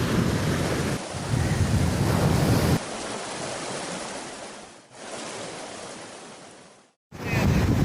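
Ocean surf with wind buffeting the microphone. About three seconds in the wind rumble drops away, leaving a steadier hiss of surf that swells and fades twice before cutting off suddenly; the wind comes back near the end.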